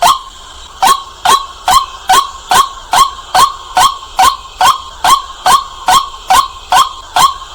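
White-breasted waterhen calling: loud, short, harsh notes repeated evenly about twice a second, starting after a brief pause. This is the waterhen's night call, used as a lure call.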